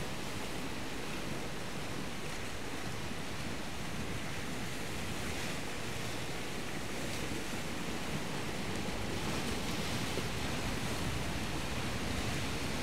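Steady wash of surf breaking on the shore, with wind on the microphone.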